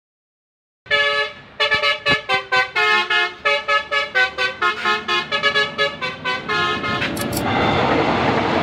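Multi-tone vehicle horn playing a quick tune of short notes, about three or four a second, starting about a second in. Near the end a steady rushing noise takes over.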